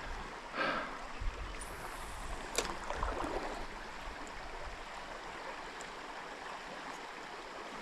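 Trout stream water flowing steadily in a low, even rush, with one sharp click about two and a half seconds in.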